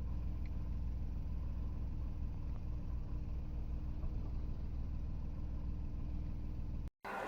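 Steady low hum of a car engine running, which cuts off abruptly near the end.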